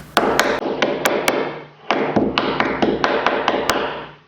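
A quick series of sharp metal taps, about four or five a second with a short pause about one and a half seconds in: a scraper being knocked in under a rusted-in window seal on a steel car body.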